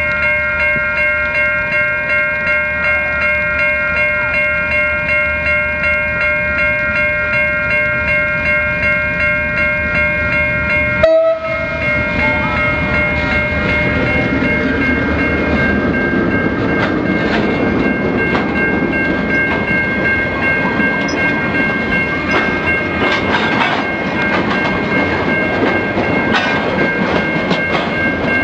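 Level crossing warning bells ring steadily with a regular pulse. About eleven seconds in, a KiwiRail DL class diesel locomotive rumbles past, followed by freight wagons rolling by with wheel clatter, while the crossing bells keep ringing.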